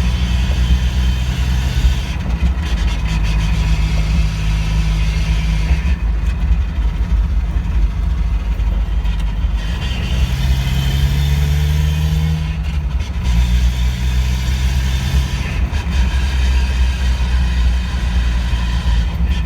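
NA Mazda Miata four-cylinder engine and drivetrain running on the move, the engine note shifting every few seconds. This is the drivetrain noise that started after a differential change and persisted through a transmission swap, though the noise itself cannot be picked out separately.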